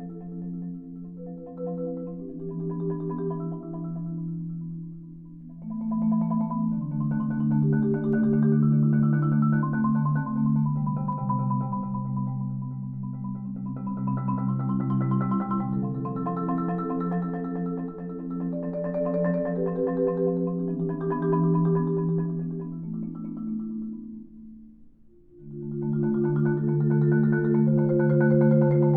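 Solo marimba playing a contemporary concert piece: it begins softly and builds to loud, full passages with sustained low notes under higher struck notes. It drops nearly to silence about 25 seconds in, then comes back loud.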